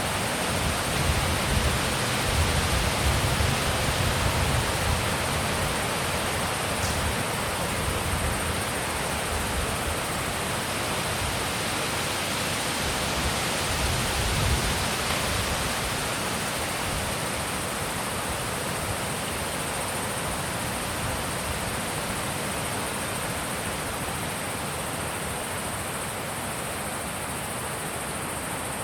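Wind blowing steadily with a broad hiss. Low gusts rumble on the microphone in the first few seconds and again about halfway through, and the wind eases slightly toward the end.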